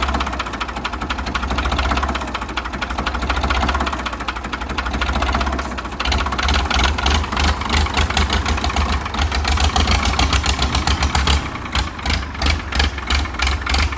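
Three-cylinder Perkins diesel engine of a 1985 Ford 1910 tractor being cranked on the starter, with a fast rhythmic chugging that does not settle into a steady run. The engine is not starting because sludge in the tank keeps blocking the fuel line.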